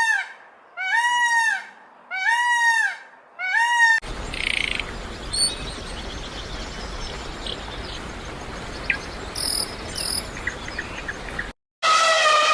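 An animal calls four times in quick succession, about one call a second, each a short cry that rises and falls in pitch. Then a steady outdoor background with a low rumble and scattered faint chirps follows. Another similar loud call comes near the end.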